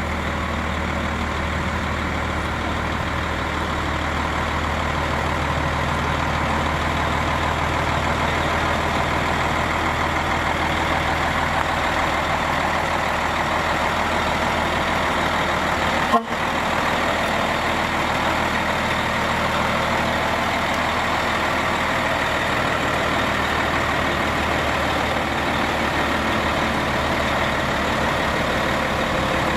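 Heavy trucks running on the road, a steady engine and tyre noise with no distinct pass-by peaks, broken by a momentary dropout a little past halfway.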